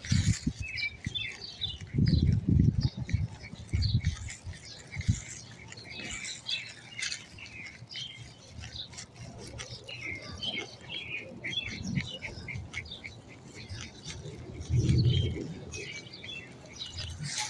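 Small birds chirping and twittering over and over, with a few dull low rumbles on the microphone, loudest about two seconds in and again near the end.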